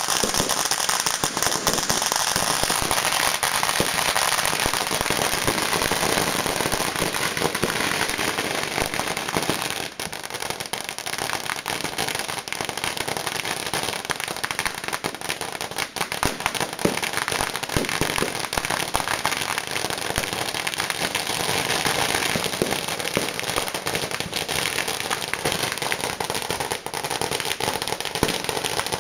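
A fireworks display going off without a break: a dense, steady crackle of rapid pops, with louder bangs scattered through.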